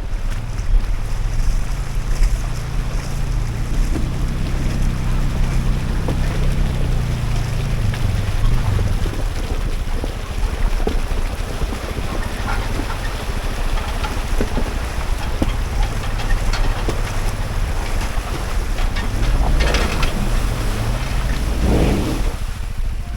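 Off-road 4x4 engine revving up and falling back as the vehicle works over an obstacle, rising again near the end, with scattered clicks and knocks and wind buffeting the microphone.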